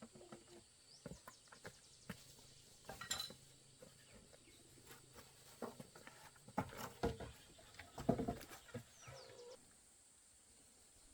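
Scattered light knocks and clatter at an irregular pace, with a couple of faint short bird chirps.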